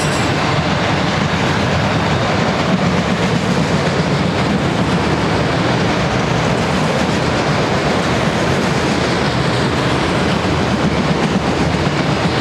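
Loaded auto-rack freight cars rolling past at speed: a steady noise of steel wheels running on the rails.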